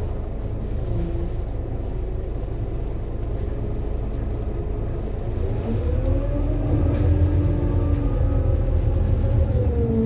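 Scania K230UB city bus's five-cylinder diesel running steadily, then accelerating from about halfway, with a whine that rises in pitch as it picks up speed.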